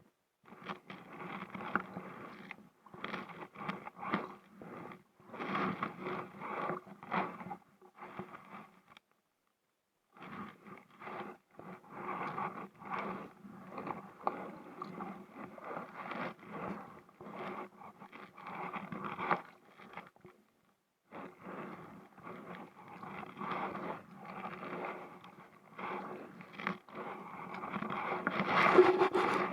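Paddling an inflatable kayak: uneven bursts of paddle strokes and scraping against the kayak, stopping briefly twice and growing louder near the end.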